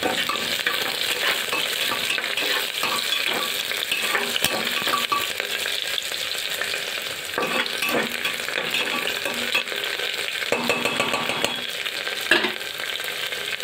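Sliced onions and green chillies sizzling in hot oil in an aluminium pressure cooker, a steady frying hiss, while a metal spatula stirs them and knocks against the pot a few times.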